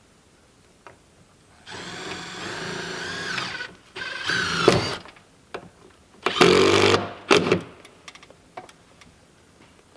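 Handheld power drill running in four bursts: a steady whine of about two seconds, a shorter burst with the pitch rising and falling, a loud burst of under a second, and a brief final spurt.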